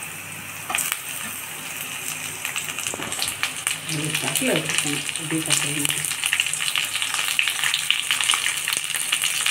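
Mutton liver pieces frying in hot oil with onions in an aluminium kadai: a crackling sizzle that jumps up about a second in as the liver goes in, then grows louder. Near the end the pieces are stirred with a perforated metal ladle.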